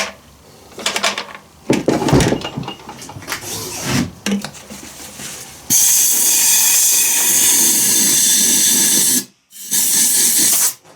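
Compressed air blowgun blowing out a small engine's fuel lines: a long, steady hiss of air, a brief stop, then a shorter second blast near the end. Knocks and handling noise come before the air.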